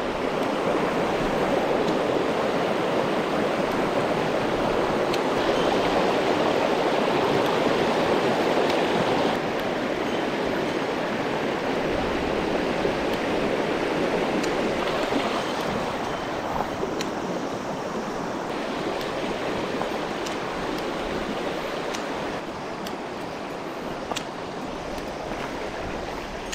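Mountain stream water rushing steadily over rocks, a dense even rush that slowly eases a little, with a few faint ticks.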